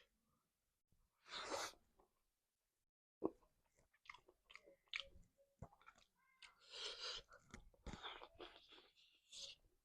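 Close-miked chewing and mouth sounds of a person eating, with small irregular clicks and crunches and a breathy sound about a second and a half in.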